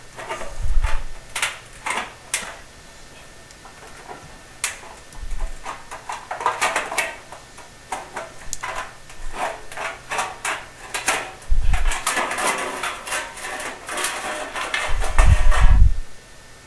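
Tin snips cutting thin sheet-metal flue pipe: a run of irregular metallic snips and crunches, thickest in the second half, with a few low thumps as the pipe is handled.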